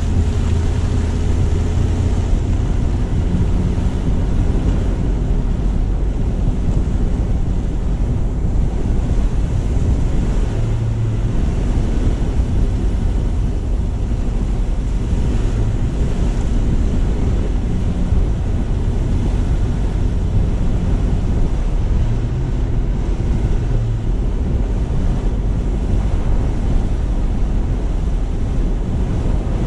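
Steady low rumble of a car driving, with wind buffeting the low-mounted camera's microphone and road noise from the tyres.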